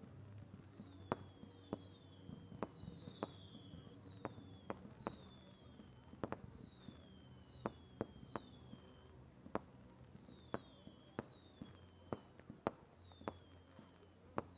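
Fireworks going off at a distance: a string of sharp, irregular bangs, one or two a second, mixed with repeated short whistles that fall in pitch.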